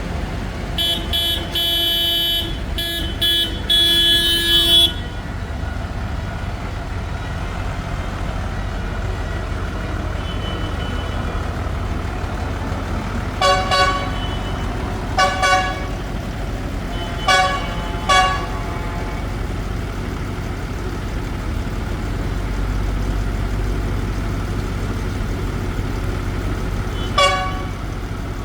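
Tractors' horns tooting as they pass, over a steady low rumble of their engines. There is a quick run of horn blasts in the first few seconds, four short toots in the middle and one more near the end.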